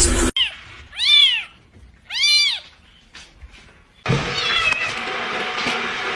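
A cat meowing twice, two calls a little over a second apart, each rising and then falling in pitch. From about four seconds in, a steady noisy background takes over, with a faint high call in it.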